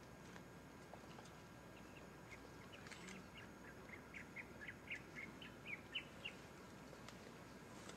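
Faint bird song in forest: a quick run of short chirps starting about two seconds in and ending about six seconds in, over a quiet background hush.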